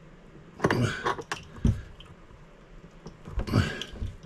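Handling noises from fitting a bidet's water-supply T connector behind a toilet: a few scattered clicks and knocks of plastic fittings and hands, with clusters about a second in and again about three and a half seconds in.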